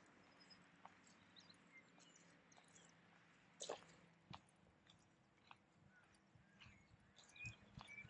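Near silence with faint birdsong: scattered short, high chirps from small birds, and one brief louder sound about halfway through.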